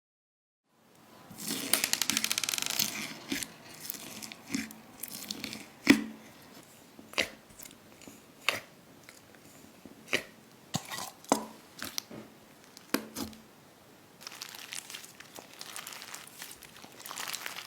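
Slime worked close to the microphone: a burst of dense crackling, then a run of sharp pops about once a second, easing into a soft crinkling near the end.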